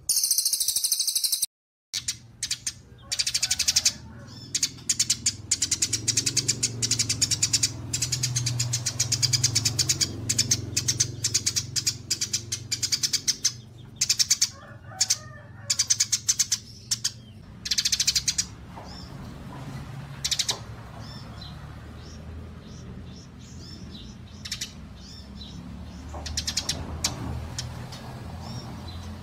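Songbirds chirping and singing in rapid, high-pitched trills and volleys, kept for bird mastering. Dense and loud for the first half, then thinner and quieter, over a steady low hum.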